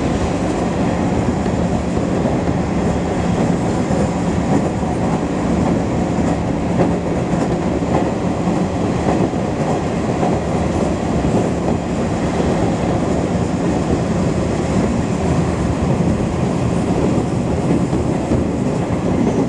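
Steady running noise heard from inside a moving electric commuter train: an even rumble of the wheels on the rails with a steady low hum under it.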